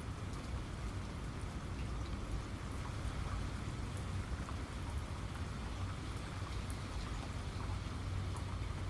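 Steady rain falling, a continuous hiss with scattered individual drops ticking, over a constant low rumble.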